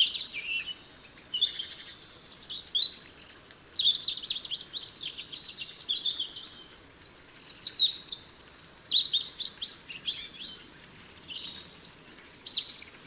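Small garden songbirds calling and twittering, many short chirps and trills overlapping almost without a break, as from several birds at once. The sound cuts off suddenly at the end.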